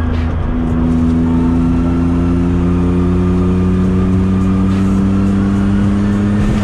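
BMW E36 engine heard from inside the cabin: a gear change about half a second in, then the engine pulls steadily in the next gear, its pitch rising slowly as the car gains speed, over steady road and tyre noise.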